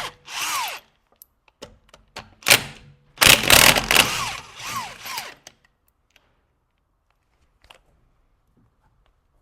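Impact wrench run in several short bursts through the first half, each ending in a falling whine as the motor spins down, typical of undoing wheel nuts. Then near silence with a few faint clicks.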